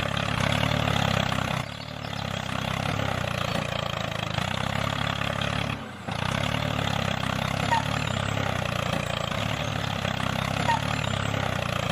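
Tractor engine running steadily at a low idle. It dips briefly about two seconds in and again about six seconds in.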